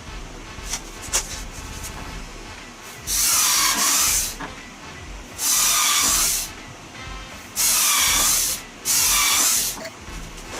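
A power tool run in four bursts of about a second each, the last two close together.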